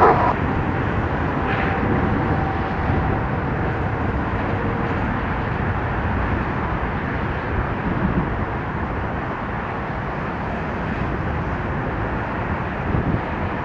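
Heavy jet airliner's engines, a steady rushing roar, with a faint steady whine over the first few seconds.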